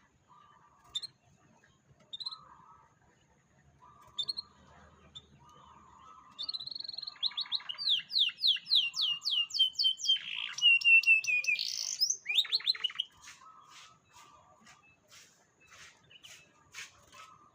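Canary singing: a few short chirps, then a loud trilled phrase of rapid sweeping notes lasting several seconds, breaking into a fast run of clicking notes near the end. A lower call repeats about every second and a half underneath.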